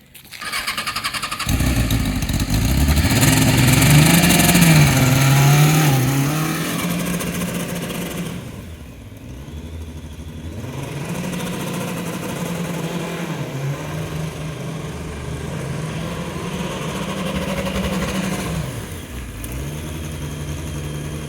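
An engine starts and runs, its speed rising and falling. It is loudest a few seconds in, eases off briefly around the middle, then revs up and down again.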